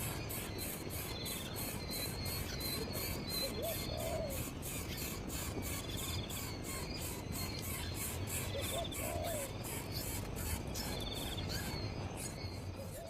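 Insects trilling in a fast, even pulse, with a low hooting bird call repeating about every four to five seconds.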